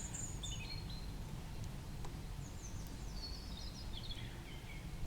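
Wild songbirds singing, with short high phrases and one run of notes stepping down in pitch about halfway through, over a steady low rumble.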